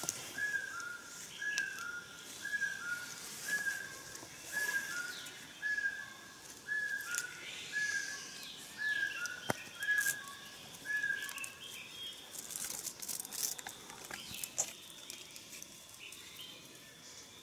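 A bird calling: a short two-note whistle, a higher note then a slightly lower one, repeated evenly a little more than once a second, stopping about eleven seconds in. A single sharp click comes about nine and a half seconds in.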